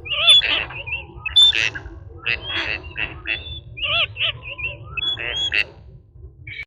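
A bird calling in a rapid series of short, squeaky chirps and squawks for about five and a half seconds, over a steady low background rumble.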